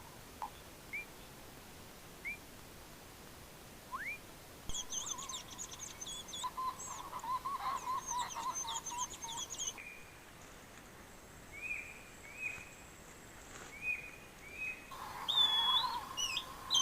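Tropical forest birds calling. A few short rising whistles come first, then a busy stretch of high chirping over a lower warbling trill, then a series of short whistled notes. The background hiss changes abruptly twice.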